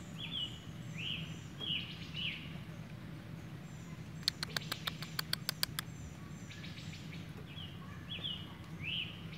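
Short, repeated bird chirps in a couple of clusters, with a quick run of about eight sharp clicks near the middle, over a steady low hum.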